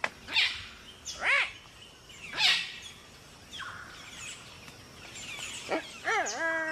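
Palm cockatoo calls: three loud, short calls that rise and fall in pitch in the first few seconds, fainter calls after, then a longer drawn-out call with a wavering start near the end.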